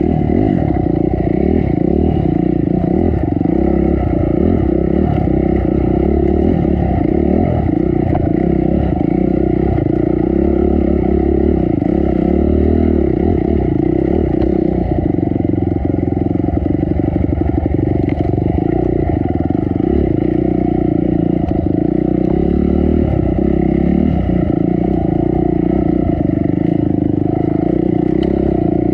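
Dirt bike engine running under throttle on a technical enduro trail, its revs rising and falling slightly, with light rattling from the bike.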